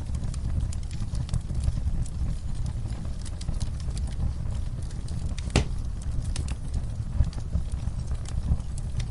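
Campfire burning, with a steady low rumble and scattered sharp crackles and pops from the wood, one louder pop a little past halfway.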